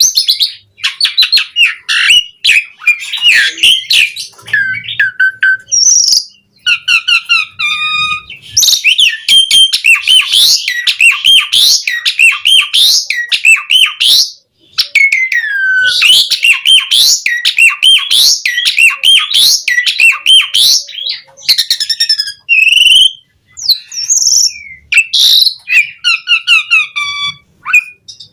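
Asian pied starling (jalak suren) singing a long, rich song of whistles, fast chattering trills and borrowed calls of other birds, broken by a couple of short pauses.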